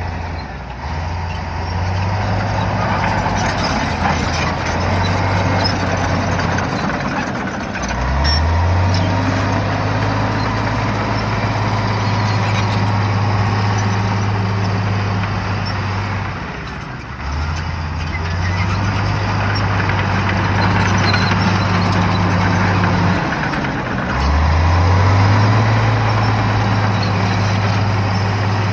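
Shantui bulldozer's diesel engine working under load, revving up and easing off in cycles: the pitch rises about eight seconds in and again near twenty-four seconds, with dips around seventeen and twenty-three seconds, over a steady broad noise of the working machine.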